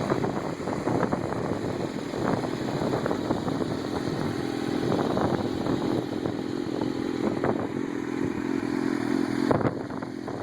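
2006 Suzuki GSX-R1000 inline-four running steadily at idle through a Yoshimura TRS aftermarket exhaust.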